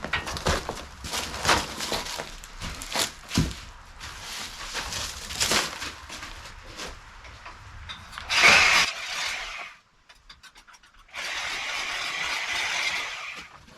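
Metal clanking and scraping as tools and exhaust parts are handled, then two short runs of a power cutting tool, about a second and a half and about two seconds long, cutting the welded tailpipe off the exhaust manifold.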